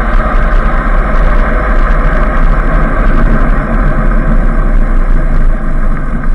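Steady, loud noise of a moving bike ride: wind rushing over the microphone with a low buffeting rumble, mixed with road and vehicle noise.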